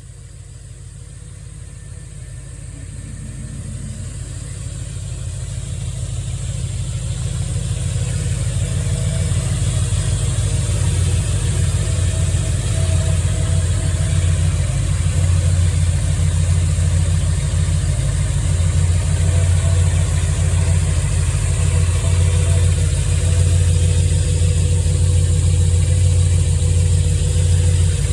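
1985 Chevy engine idling, a steady low running sound that grows louder over the first ten seconds or so and then holds even.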